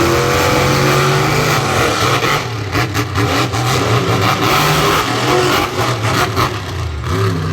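Monster truck engines revving hard in a race. The pitch rises at the start and then holds at high revs, with many sharp cracks through the middle.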